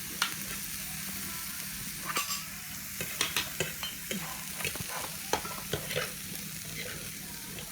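Scattered light clinks and taps of utensils on dishes during a meal, over a steady hiss and low hum.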